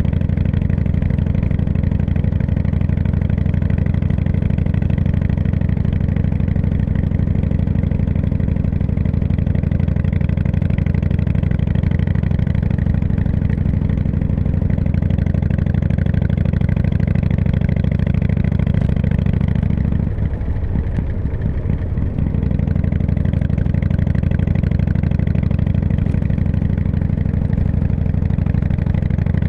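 Harley-Davidson V-twin motorcycle engine running steadily. About two-thirds of the way through, its note briefly drops and breaks up for a couple of seconds, then picks up again.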